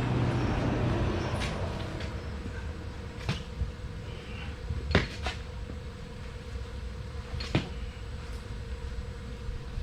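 Wrench work on large steel bolts: a scuffling, rustling stretch for the first couple of seconds, then a few sharp metal knocks spaced over the next several seconds, over a steady hum.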